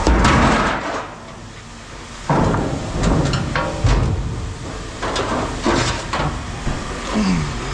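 Pieces of scrap metal being handled and dropped: a series of separate clanks and knocks, roughly one a second.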